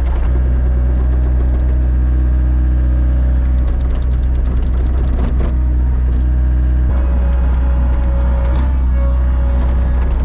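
Plow truck's engine running steadily, its note shifting about seven seconds in.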